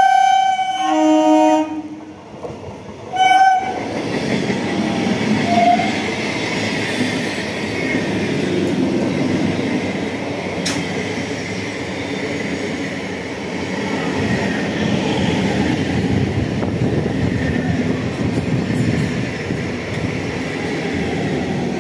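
Electric multiple-unit suburban train sounding its horn, first a held note, then a lower note, then a short blast about three seconds in. It then runs past close by, with the steady rumble of the carriages and wheels on the rails continuing to the end.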